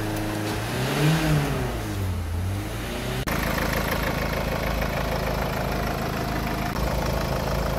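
2013 Ford Mondeo diesel engine being started: its pitch rises and falls once as it flares and settles, then it idles steadily. This is the first start after an oil and filter change.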